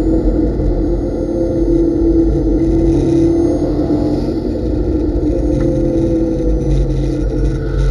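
Subaru Legacy race car's boxer engine heard from inside the cabin, pulling hard at around 4,500 to 4,900 rpm under mostly open throttle, its pitch sagging slightly as the revs ease off.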